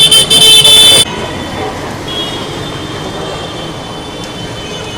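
A vehicle horn blares loudly for about a second, then cuts off, leaving steady road traffic noise. A second, fainter horn sounds from about two seconds in.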